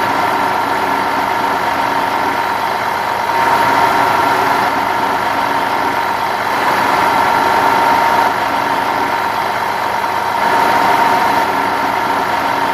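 Vehicle engine running steadily at idle, with a steady drone. It swells a little louder three times.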